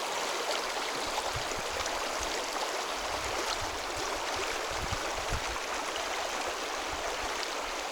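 Mountain river running, a steady rush of flowing water, with a few soft low thumps in the middle.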